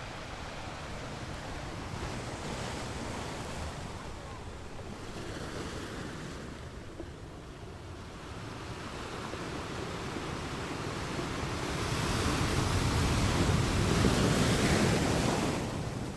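Sea waves breaking and washing ashore, with wind on the microphone. The surf swells to its loudest about three-quarters of the way through and falls away just before the end.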